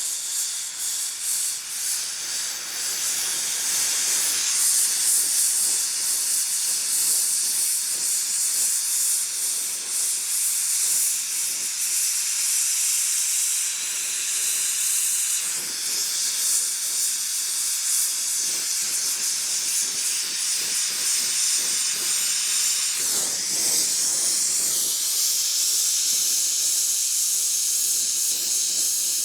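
Ambro Precision Torch's oxygen-fuel flame hissing steadily as it heats a 1-1/8 inch copper pipe joint for brazing.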